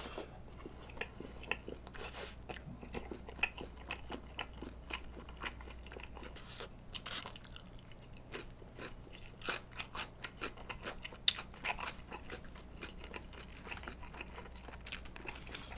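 Close-miked chewing of a bite of sausage and rice cake (sotteok) with sauce-glazed fried chicken. It is wet and crunchy, with many irregular sharp crunches several times a second.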